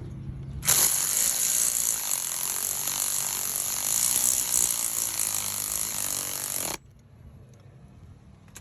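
A power tool runs steadily for about six seconds, driving in the bolt that holds the crankshaft position sensor. It starts sharply about a second in and cuts off suddenly.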